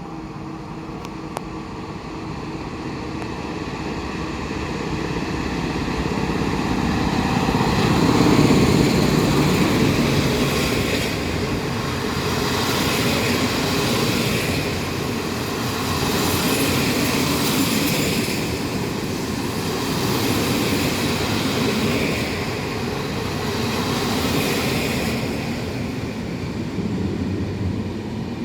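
Electric locomotive hauling a long passenger train of coaches past: the rail noise builds to its loudest about eight seconds in, then the coaches roll by with wheel and rail noise that swells and eases every couple of seconds.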